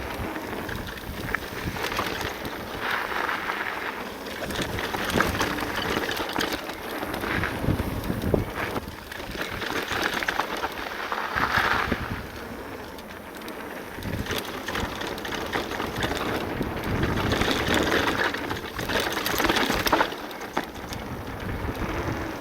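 Full-suspension e-mountain bike riding fast down a dirt and gravel trail: tyres crunching and hissing over the ground, with frequent clicks and knocks from the bike over bumps, and wind buffeting the microphone in surges.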